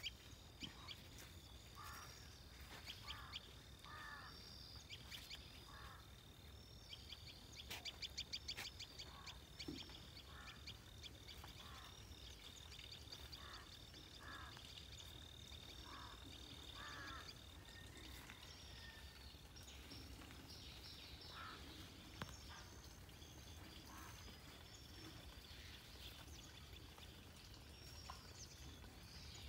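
Faint birdsong: many short chirps and calls from several birds, with a rapid trill about eight seconds in and a thin steady high tone through the first half.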